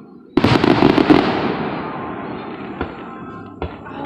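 Fireworks exploding: a sudden loud burst about a third of a second in, with a quick run of crackling bangs that fades over a couple of seconds, then two smaller pops near the end.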